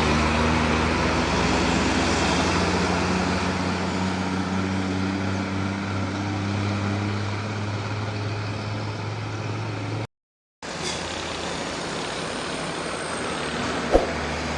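Hino 500 diesel truck engine running with a steady low hum that fades over several seconds, giving way to general road traffic noise. The sound cuts out completely for half a second about two-thirds of the way through, and there is a single sharp knock near the end.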